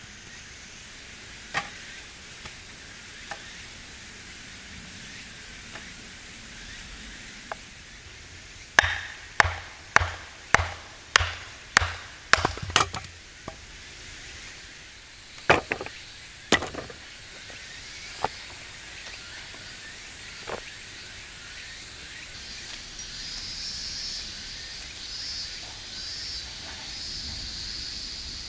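Hand axe chopping firewood: a few single strikes, then a quick run of about eight blows roughly half a second apart near the middle, then a few more single strikes. A faint steady hiss comes in near the end.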